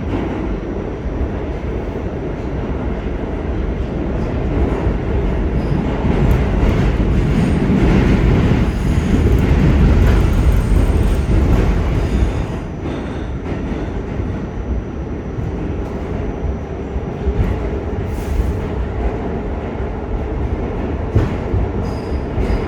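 R46 subway train running between stations, with steady wheel-and-rail noise that grows loudest about halfway through and then eases.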